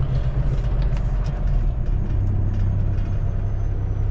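Semi-truck diesel engine running. Its low hum drops to a lower, steady pitch about two seconds in, with a few light clicks before that.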